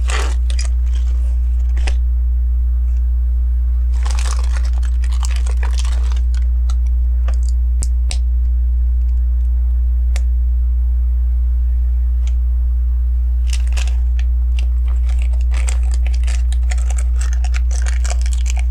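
Plastic LEGO pieces being handled: scattered clicks and rattles of bricks, with stretches of crinkly rustling, over a steady low hum.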